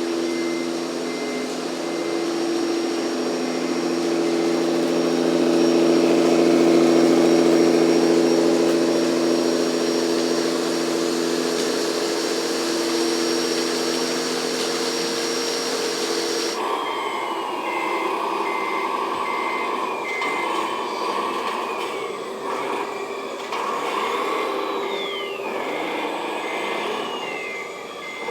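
Radio-controlled model construction machinery: a steady electric hum of several tones for most of the first half, then after a sudden change a model truck's electronic reversing beeper sounding about twice a second over whining, falling motor sounds.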